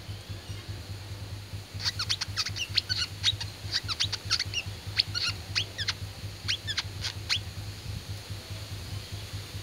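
A wiceh bird calling: a rapid run of sharp, falling chirps starting about two seconds in and stopping about two seconds before the end. A steady low hum runs underneath.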